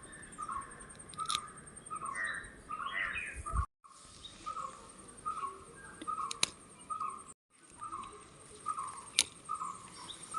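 A bird calling over and over in short notes, about two a second, over a steady high insect-like trill, with a few sharp clicks. The sound drops out briefly twice.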